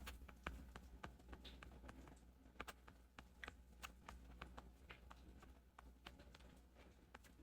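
Faint, irregular clicks of typing on a computer keyboard, a few keystrokes a second at most, over near-silent room tone.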